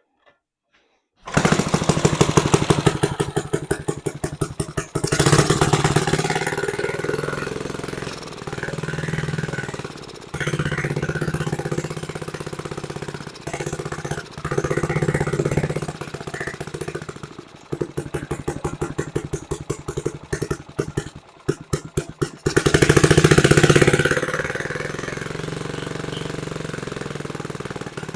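A 1950s reel mower's small gasoline engine starts about a second in and runs unevenly, surging up and down, choppy and stumbling for a few seconds past the middle, then revving up loud before settling to a steadier fast run. It won't idle down: the carburetor needs adjusting.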